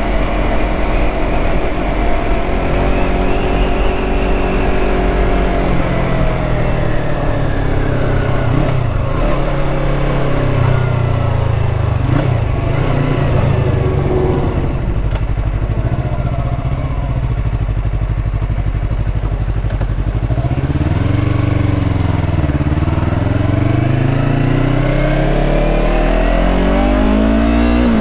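Yamaha R3's 321 cc parallel-twin engine on the move, its pitch climbing with the revs and dropping back several times as the rider changes speed and gear, rising again near the end.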